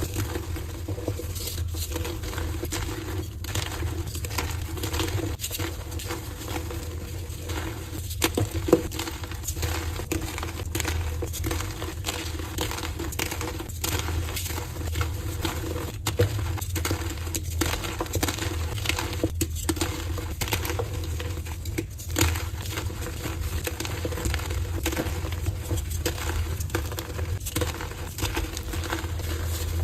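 Dyed soft gym chalk being crushed, crumbling and crackling in a steady stream of small crunches, with a few sharper snaps, over a constant low hum.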